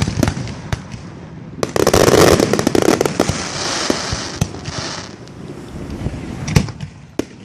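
Aerial fireworks display: a dense volley of bangs about a second and a half in, trailing into a few seconds of hissing noise, then scattered single pops and bangs near the end.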